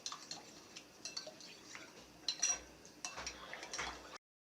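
A metal spoon clinking and scraping against a dish while stirring a gelatin and milk mixture, in irregular light taps. The sound cuts off abruptly near the end.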